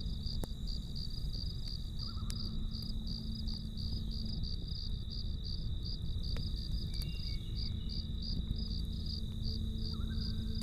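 Crickets chirping in a steady rhythm of about four chirps a second, with a continuous high insect trill, over the low rumble of a campfire with a few sharp crackles. A soft, steady low drone sits underneath.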